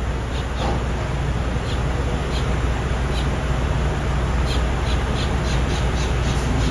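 Birds calling in short, repeated caws, sparse at first and then several a second in the second half, over a steady low rumble.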